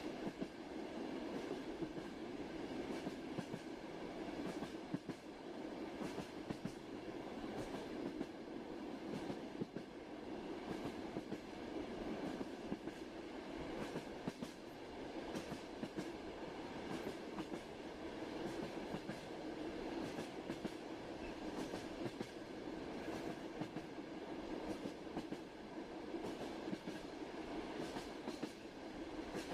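A passenger train running at steady speed: a continuous rumble with the wheels clicking irregularly over the rails, the clatter of wheels on track.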